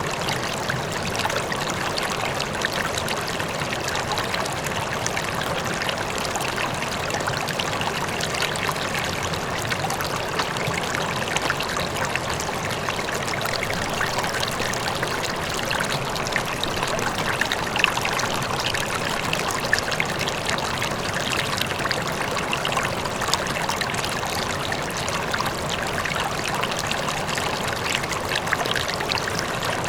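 River water flowing steadily over stones, a constant rushing and babbling with small splashes, with a faint waterfall in the distance.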